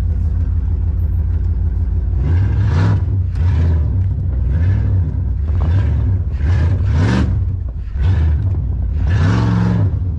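Pickup truck V10 engine idling and being revved in about six short bursts, each rise and fall in pitch lasting under a second, while the cold truck is backed into place.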